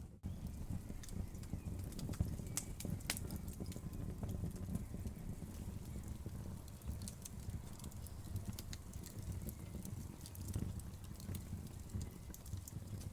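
Wood fire crackling: irregular sharp pops and snaps over a steady low rumble, with two louder pops a couple of seconds in.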